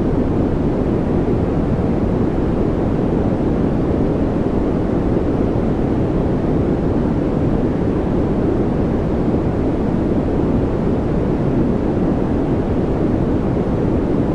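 Steady 'white noise' track for focus or relaxation, deep and muffled rather than hissy, with no changes or events.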